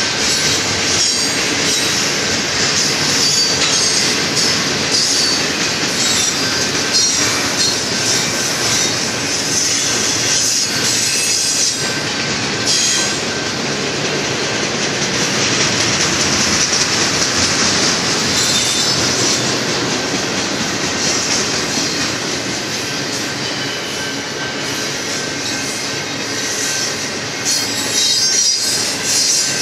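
Freight train of double-stack container well cars rolling past at close range: a steady loud din of steel wheels on rail, with a thin, constant wheel squeal and clicking from the trucks.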